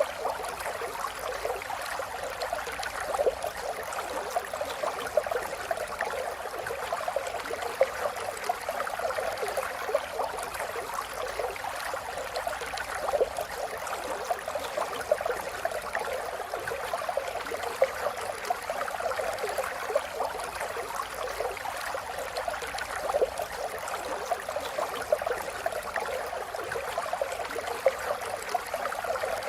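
River water flowing and burbling over stones, a steady rushing with many small splashes.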